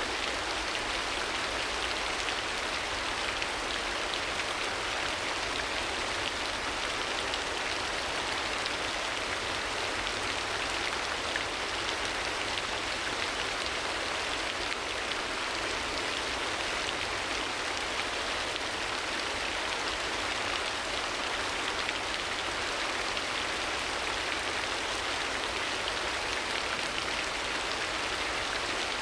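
Steady rain, an even hiss that neither swells nor breaks.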